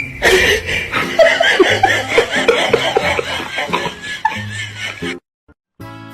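People laughing and chuckling in short bursts over background music, cut off suddenly about five seconds in; after a brief silence a jazzy instrumental tune starts.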